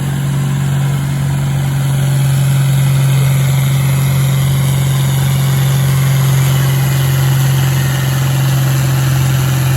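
Pulling tractor's engine running loud at a steady, held speed while it drags the sled down the track, getting slightly louder toward the end.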